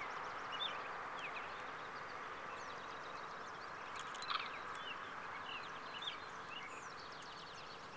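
Small birds chirping and singing in many short, quick calls over a steady background hiss.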